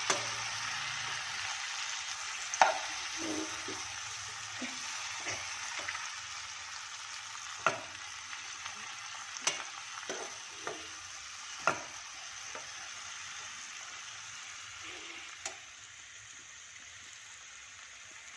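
Sliced mushrooms and onions sizzling in a nonstick wok as they are stirred with a metal spoon, which clicks and scrapes against the pan every few seconds. The sizzle fades in the last few seconds.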